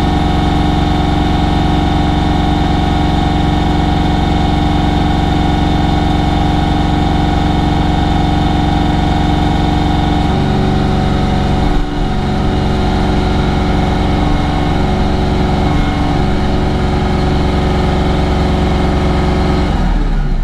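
Bobcat CT5555 compact tractor's diesel engine running at full throttle while the front loader strains to lift a load. About ten seconds in, the engine note drops and wavers as the hydraulics load it, with a brief knock soon after. The loader is lifting well short of its rated capacity, which the owner blames on a hydraulic pump problem.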